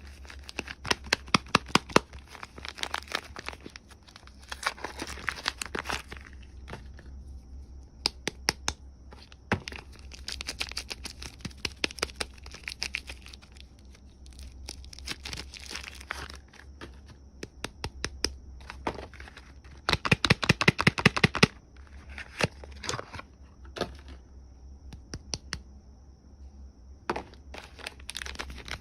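Soap bar wrappers being torn open and crinkled by hand, in bursts of sharp crackling with short pauses between them.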